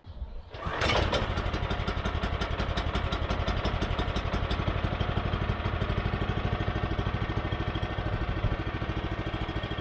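The 9.5 hp single-cylinder engine of a Woodland Mills HM122 band sawmill starting up, catching within the first second and then running steadily with an even beat as it warms up on its first cold start of the year.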